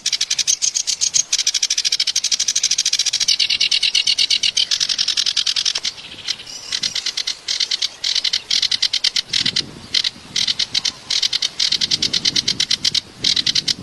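Kerak basi, a reed warbler, singing a harsh, rapid chattering song of very fast repeated notes, about ten a second. It runs unbroken for about six seconds, then comes in short broken phrases.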